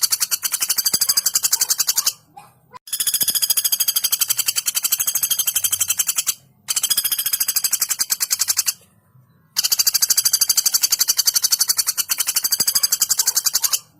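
Female pelatuk bawang giving its rapid, high-pitched rattling trill in long runs of several seconds, with short breaks about two, six and a half and nine seconds in.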